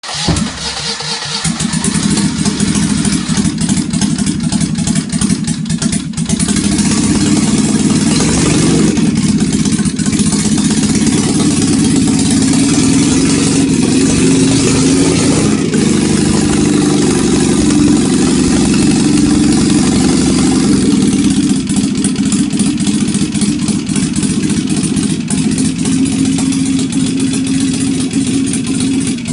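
Citroën 2CV's air-cooled flat-twin engine, freshly rebuilt, starting right at the beginning and then running steadily.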